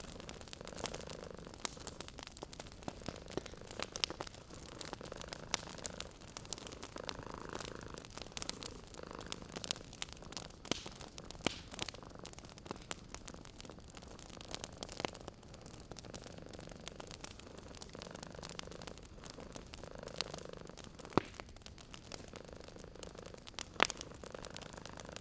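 Fireplace crackling with frequent sharp pops, and a cat purring underneath in slow, swelling breaths.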